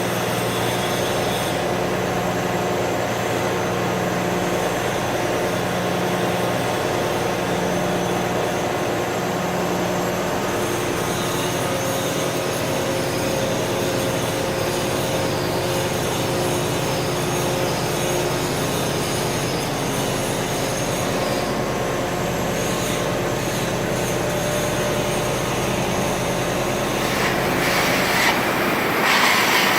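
Steady industrial machinery noise with several held tones over a dense hiss, growing brighter and louder near the end.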